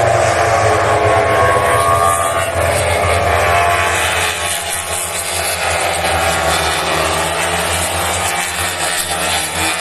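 MotoGP racing motorcycles, four-cylinder 1000 cc engines at high revs, passing the track side one after another. The engine pitch falls as one bike goes by, then rises again about two seconds in, and the sound stays loud throughout.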